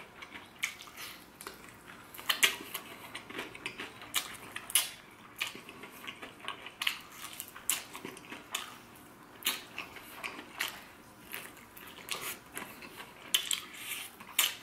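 A person chewing fried chicken close to the microphone: an irregular run of sharp crunchy clicks and wet mouth smacks, several a second.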